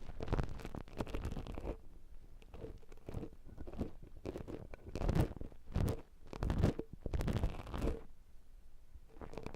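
Ear-cleaning tool scratching and rustling inside a silicone ear model, close to the microphone, in a series of irregular strokes, some brief and some over a second long.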